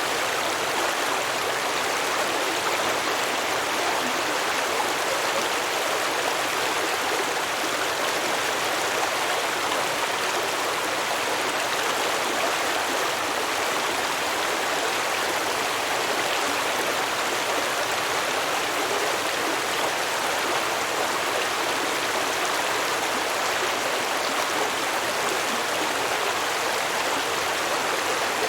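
Stream water flowing and babbling over rocks, a steady unbroken rush.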